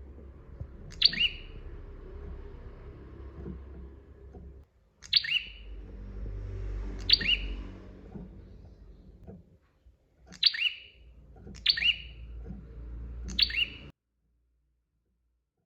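Prinia (prenjak) giving its loud, sharp call six times at uneven intervals, each a quick two-part note falling in pitch, over a low steady rumble. The sound cuts off to silence near the end.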